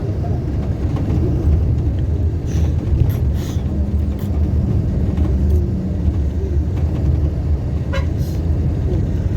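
Steady low rumble of a moving road vehicle, engine and road noise, with a few faint short clicks and rustles over it.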